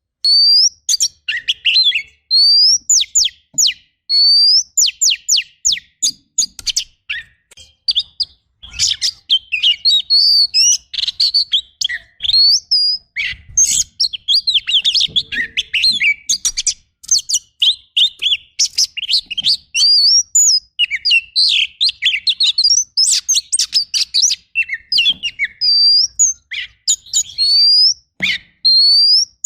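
Oriental magpie-robin (kacer) singing a fast, varied song: rising whistles alternating with dense, rapid rattling phrases, packed with mimicked calls of other birds.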